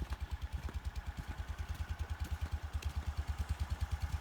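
Square-body Chevrolet 3500 dually's 350 small-block V8 idling steadily shortly after a cold start, a low, even pulsing rumble; the owner calls it idling happily.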